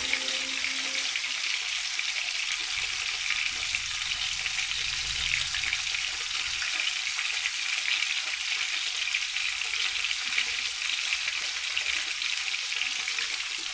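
Chicken pieces and tofu frying in hot oil in a wok: a steady sizzle with fine crackling.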